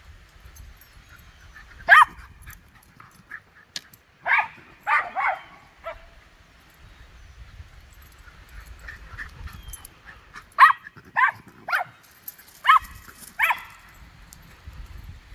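Small schnauzer-type dog barking in short, sharp barks during a play chase: a single bark about two seconds in, three quick barks a couple of seconds later, and a run of five near the end.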